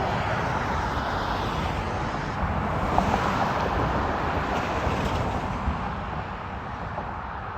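Steady outdoor vehicle noise, a broad rumble that gradually fades over the last couple of seconds.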